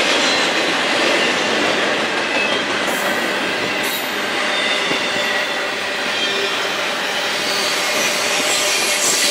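Freight train cars rolling past, a steady noise of wheels on rail with thin high-pitched wheel squeal over it.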